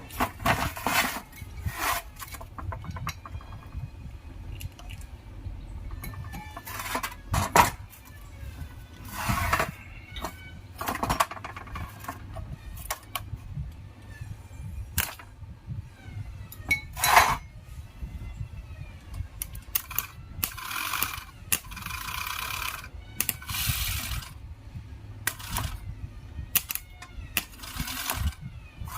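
Metal parts and tools clinking and knocking at irregular intervals during starter motor repair work, with a few longer scraping stretches of about a second each near the end.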